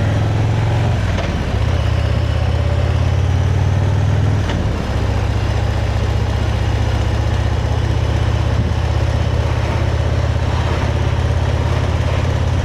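Motorcycle engine running steadily under way, heard from on the bike. The engine sound dips briefly about a second and a half in, and again just before five seconds.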